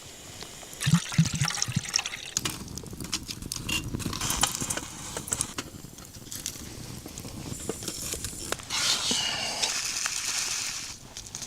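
Liquid being poured and sloshing, with clicks and knocks of things being handled; a steady pouring hiss from about nine to eleven seconds in.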